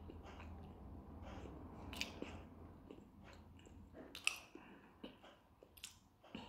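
Faint chewing and mouth sounds of a person eating, with a few soft irregular clicks and smacks, two of them a little louder at about two and four seconds in.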